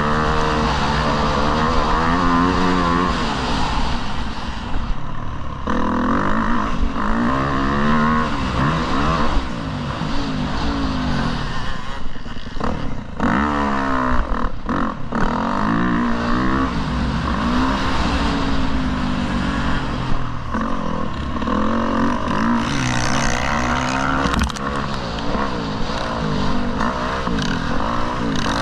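Motocross dirt bike engine revving hard and backing off over and over, its pitch climbing and dropping repeatedly, under a steady rush of noise.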